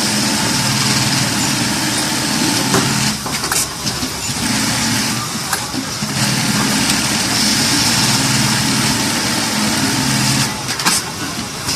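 V-2210ATB-NY automatic eyelet buttonhole sewing machine running with a steady hum and hiss. It breaks off briefly a few times, with a click at each break.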